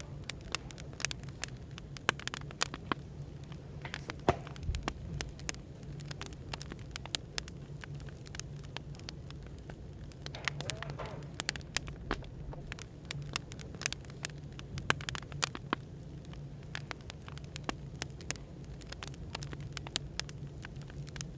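Wood fire crackling, with frequent irregular sharp pops and snaps, over a steady low hum of background room noise.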